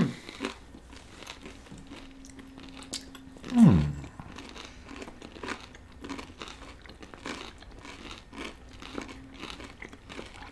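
Close-miked chewing of crisp fried falafel, with soft crunches and mouth clicks scattered throughout. About three and a half seconds in comes a brief low vocal sound that falls in pitch, the loudest thing heard.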